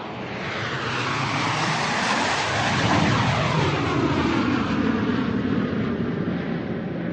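Airplane flying overhead: its roar swells up, is loudest about three seconds in, then slowly fades as it passes.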